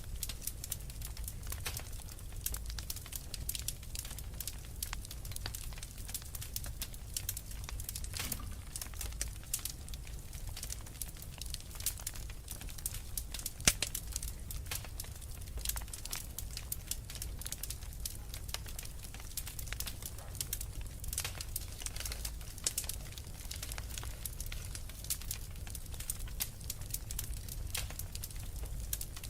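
Wood fire burning in a fireplace: dense, irregular crackling and popping of the logs over a low steady rumble of the flames, with one sharper pop about halfway through.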